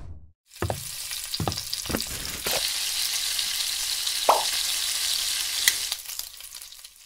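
Food frying in hot oil in a pan: a steady, crackling sizzle that starts about half a second in, after a few soft thumps, and fades out about six seconds in.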